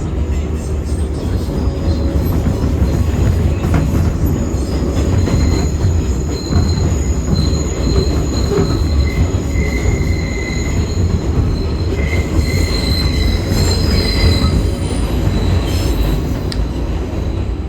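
R188 subway train running, heard from inside the car: a steady low rumble, with the wheels squealing on and off through the middle as the car takes a curve.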